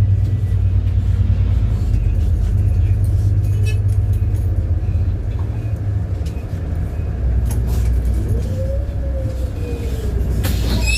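City bus heard from inside: a steady low engine and road rumble, with a drivetrain whine that rises and then falls from about eight seconds in. A sharp noise comes near the end as the bus pulls in to its stop.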